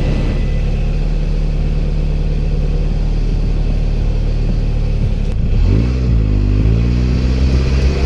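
A 2006 Scion tC's 2.4-litre four-cylinder engine running steadily. About two and a half seconds before the end, its pitch dips and rises as the car moves off.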